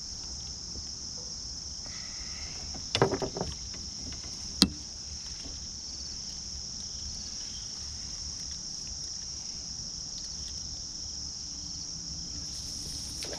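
Steady chorus of insects, crickets, shrilling on one high pitch. About three seconds in there is a quick cluster of knocks, then one sharp click a second and a half later.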